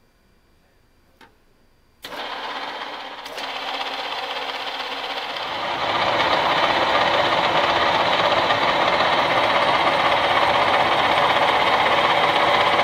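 Old Meuser M0 metal lathe switched on, its motor and geared spindle starting with a sudden clatter about two seconds in. It grows louder in two steps and settles into a steady mechanical running noise. A faint click is heard just before it starts.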